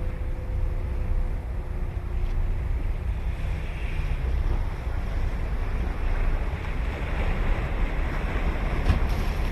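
Ocean surf breaking and washing on a sandy beach of Sagami Bay, rising and falling in swells, with wind buffeting the microphone as a steady low rumble.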